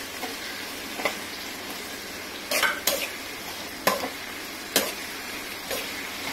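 Sliced onions and just-added tomato slices frying in oil in a kadai, a steady sizzle, while a spatula stirs them, scraping and knocking sharply against the pan about six times.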